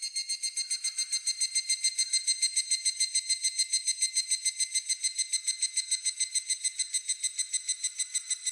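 Higurashi (evening cicada) calling: a high, ringing trill of rapid repeated notes, about seven or eight a second, swelling in over the first second and then holding steady.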